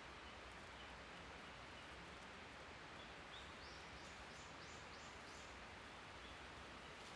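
Faint forest ambience with a steady hiss. About three and a half seconds in, a bird gives a quick run of about six short, high notes, some three a second.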